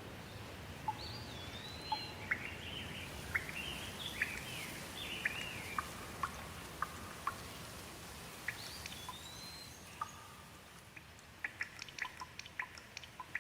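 Light rain falling steadily, with a songbird singing runs of sliding whistled notes twice. The rain fades, and from about eleven seconds in, single water drips fall at an uneven pace.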